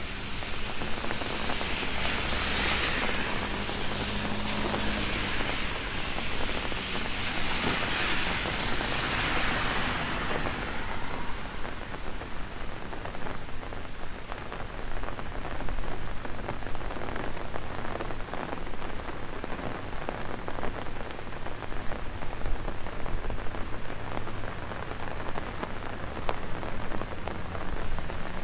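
Heavy rain drumming on an umbrella overhead: a steady rain hiss thick with the taps of individual drops. Twice in the first ten seconds a brighter hiss swells and fades.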